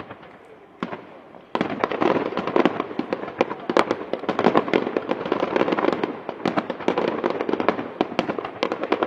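Fireworks display: a few separate sharp bangs, then from about a second and a half in a dense, unbroken barrage of rapid crackling pops and cracks.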